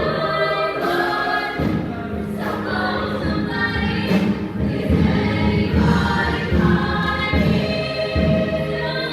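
Junior high school choir singing, with a lower part coming in about one and a half seconds in.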